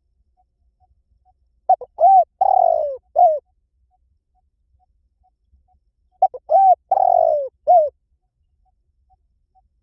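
Spotted dove cooing: two phrases about four and a half seconds apart. Each is a few short hooting notes, a longer drawn-out note that slides down, and a last short note. This is the stimulating call that bird trappers play to rouse decoy doves.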